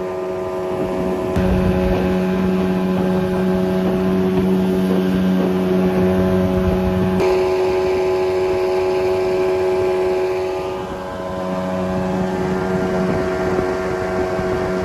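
Two-stroke jet boat motor running steadily under way, with a constant engine note over water and wind noise. The sound changes abruptly about a second in and again about seven seconds in, and it dips briefly around ten seconds in before the engine note comes back up.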